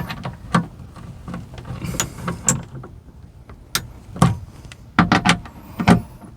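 Small hand ratchet clicking in uneven strokes while it snugs up fasteners, with clicks and knocks of the tool against metal.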